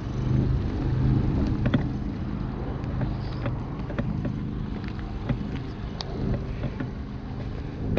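A vehicle engine running steadily with a low hum, with a few faint clicks over it.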